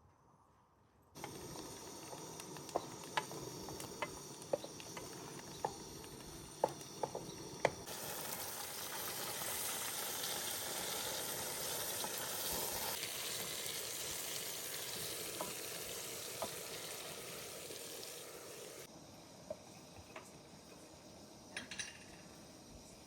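Food sizzling as it fries in a pan, with sharp clicks of a utensil stirring it. The sizzle starts suddenly about a second in, grows louder about a third of the way through, and drops back down near the end.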